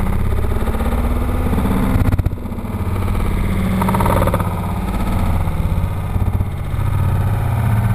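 Yamaha R6 sportbike's inline-four engine running steadily through a leaned-over turn, picked up by a bike-mounted action camera, with a short knock about two seconds in.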